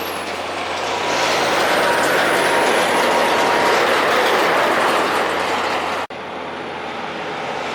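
A road train passing: a steady rush of tyre and trailer noise that swells over the first couple of seconds and holds. It breaks off sharply about six seconds in, and similar passing-truck noise picks up again.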